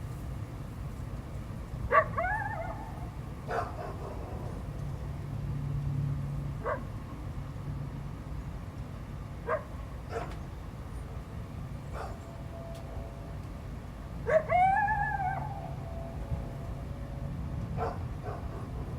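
A coyote and a dog calling back and forth: two short, wavering howl-like calls that rise and fall in pitch, about two seconds in and about three-quarters through, with several short sharp barks scattered between them, over a low steady rumble.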